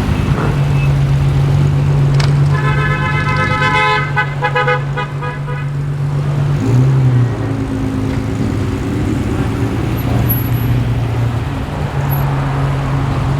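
Car engines running as cars roll in, a steady low engine note throughout. About two and a half seconds in, a car horn sounds, held for over a second and then given several quick short toots. Near seven seconds an engine note briefly jumps louder.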